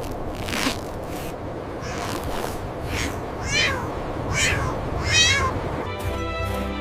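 A cat meowing: three high, wavering mews about a second apart, over a steady noisy background. Music comes in near the end.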